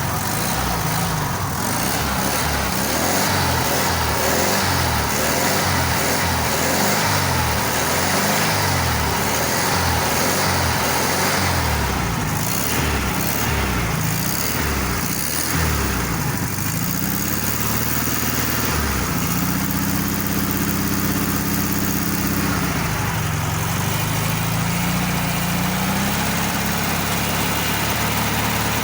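1300cc Volkswagen Beetle air-cooled flat-four engine being revved up and down over and over in quick blips. For the last third it is held at a steadier raised speed, with one brief dip.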